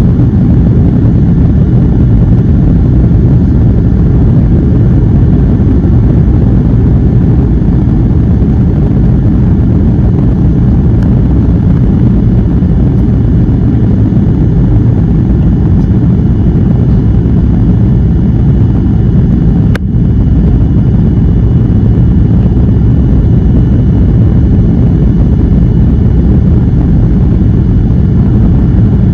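Airliner cabin noise: a steady, loud low rumble of jet engines and airflow heard from a window seat. A single sharp click comes about two-thirds of the way through.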